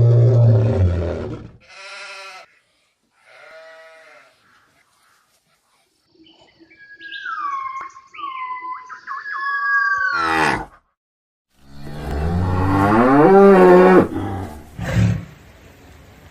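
A string of different animal calls one after another: a loud low call at the start, two short pitched calls, then a run of high, gliding calls, and a loud call rising in pitch near the end.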